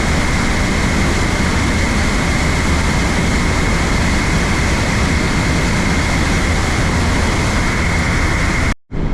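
Trümmelbach's glacial meltwater falls roaring through the narrow rock gorge, a loud, steady rush of water that echoes in the tunnel. It cuts out abruptly for a moment near the end.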